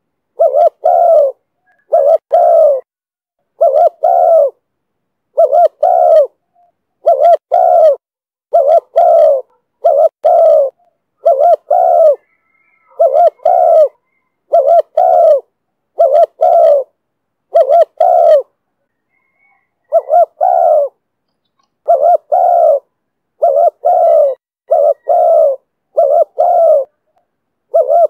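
Spotted dove cooing in the 'thổ thúc bổi' call style. A short two-part coo phrase is repeated about every second and a half, with one longer pause about two-thirds of the way through.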